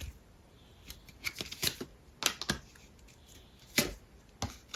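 Tarot cards being handled and laid out: a string of light, irregular clicks and rustles.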